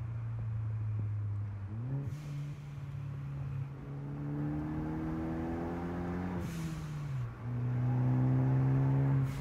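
Ford Focus ST engine heard from inside the cabin. The revs jump about two seconds in, then climb steadily as the car accelerates. They fall away around seven seconds in, and the engine then pulls steadily and louder near the end.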